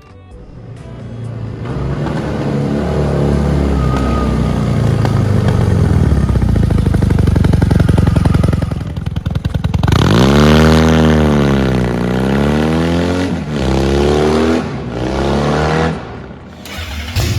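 Custom cafe racer motorcycle engine running, then revved: about ten seconds in the pitch climbs steeply, drops and climbs again, and a second, shorter rev follows a few seconds later.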